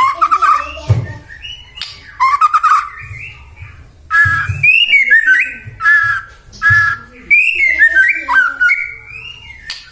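White-rumped shama singing: a run of loud, varied phrases of clear whistles, pitch glides and rapid chattering trills, delivered in bursts with short pauses between them.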